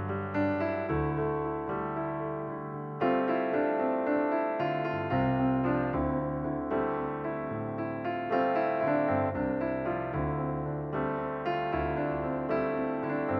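Background piano music: gentle chords and melody with notes struck and left to fade.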